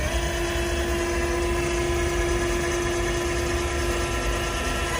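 Steady, even electric whine from the small motor of the 33 Stradale's fold-out dashboard screen as it deploys. It starts with a click and holds one pitch throughout.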